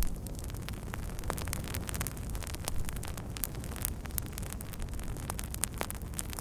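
Wood fire crackling, with many sharp irregular pops and snaps over the steady low rumble of the burning flames.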